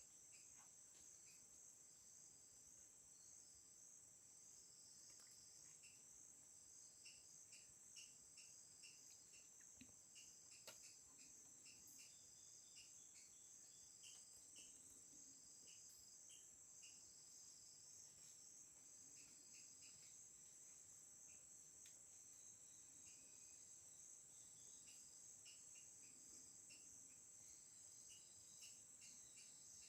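Faint insect chorus: a steady high-pitched trill with shorter chirps repeating over it, and a couple of sharp clicks about ten to eleven seconds in.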